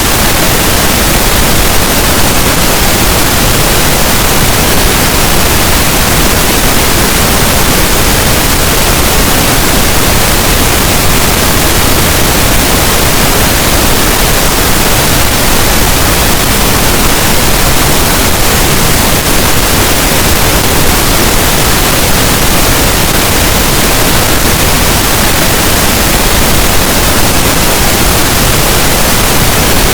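Pink noise: a loud, steady, even hiss that spreads across all pitches and does not change.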